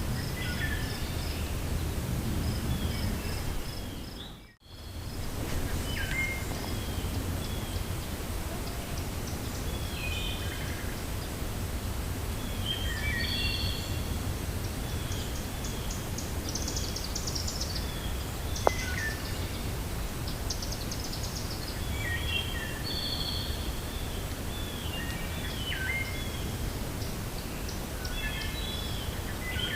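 Steady low wind with many small birds chirping and calling. The sound fades out and back in about four seconds in, and a single sharp click comes a little past halfway.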